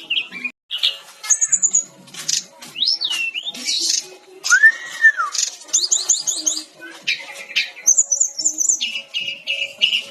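Sikatan rimba dada coklat (SRDC) jungle flycatcher singing a varied, fast song. It mixes high repeated notes and chattering trills with whistled glides, including one arched whistle rising and falling about four and a half seconds in.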